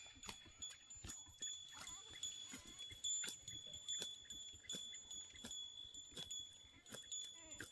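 Faint bleating of herd animals amid many irregular clicks and knocks, over a steady high-pitched tone.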